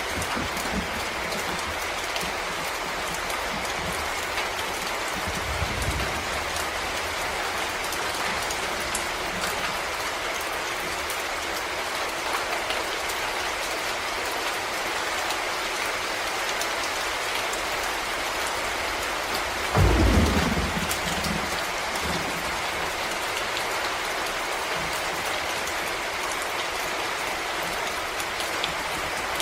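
Steady rain falling on forest leaves and ground, an even patter of drops. About two-thirds of the way through, a brief low thump stands out as the loudest moment.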